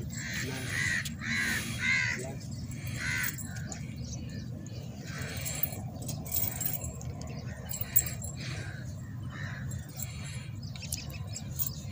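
Harsh bird calls: several loud caws about a second apart in the first few seconds, then fainter ones.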